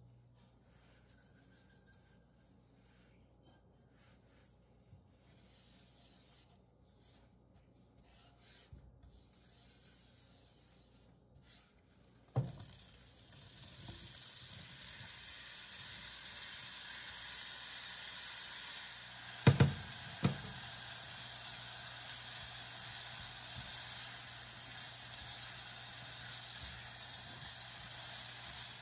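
Butter crackling faintly as it melts in a hot nonstick skillet, then diced apples poured in with a knock against the pan, setting off a steady sizzle that runs on as they are stirred. A couple of sharp knocks against the pan about two-thirds through.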